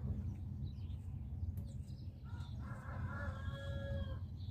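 A bird calling once, a held call of about a second and a half starting about halfway through, over a steady low rumble.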